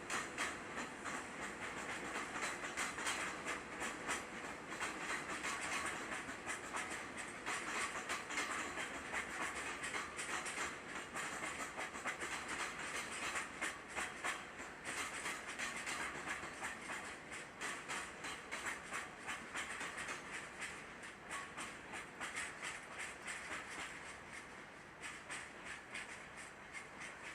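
A train passing: a steady rush of wheels on rails with rapid clacks over the rail joints, easing a little near the end.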